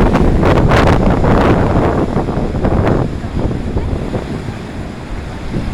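Strong gusting wind buffeting the microphone over rough surf crashing on the shore rocks. The wind is loudest at first and eases about three seconds in.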